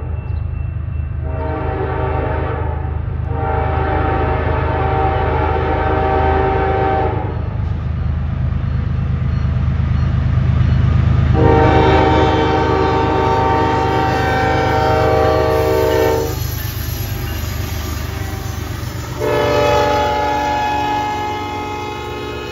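CN freight train's diesel locomotives approaching and passing with a steady low rumble that builds as they near, while the locomotive horn sounds four long blasts, a chord of several notes; the first two blasts nearly run together, the third is the longest, and the fourth begins near the end.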